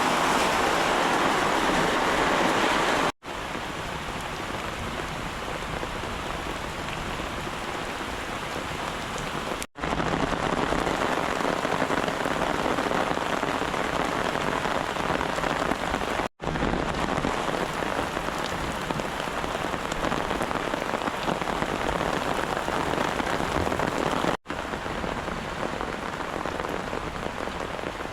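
Steady rain falling and pattering on surfaces. It comes in several separate clips joined by abrupt cuts, each with a slightly different loudness.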